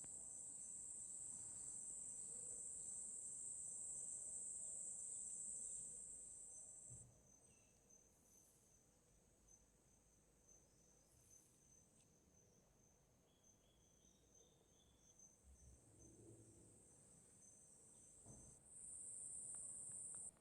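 Faint, steady high-pitched insect chirring. It drops away abruptly about seven seconds in and comes back near the end, with a few soft knocks in between.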